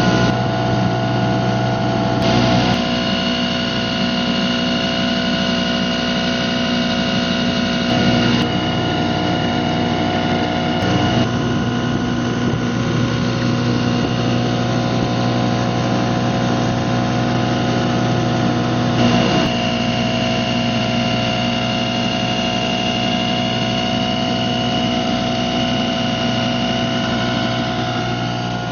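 1957 British Seagull model 102 two-stroke outboard motor running steadily while under way, its note changing abruptly a few times.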